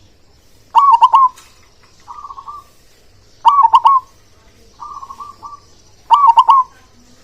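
A male zebra dove (local perkutut) singing. It gives three loud cooing phrases about every two and a half seconds, each a few quick clipped notes, and the first two are followed by a softer rolling trill.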